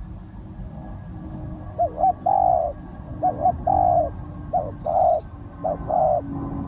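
Spotted dove cooing: four phrases, each one or two quick short notes followed by a longer held coo, beginning about two seconds in.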